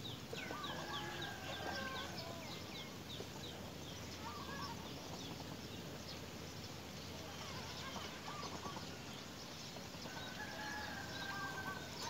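Bird calls from several birds: a quick run of short, high falling chirps in the first few seconds, a held whistle near the start and again near the end, and scattered short calls in between.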